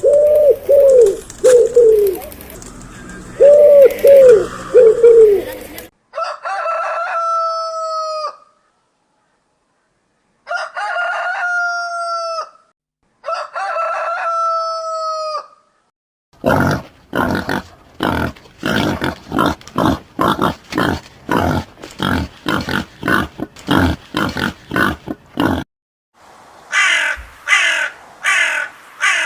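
A sequence of bird calls. First a pigeon cooing loudly and repeatedly, then three long rooster crows with pauses between them, then a hen clucking rapidly for several seconds, and near the end a few crow caws.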